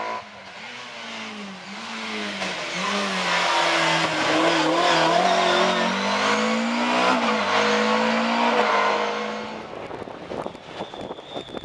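BMW M3 rally car coming up and passing at speed, its engine revving hard with the pitch dropping at each gear change. It is loudest around the middle, then fades away, with a few scattered cracks near the end.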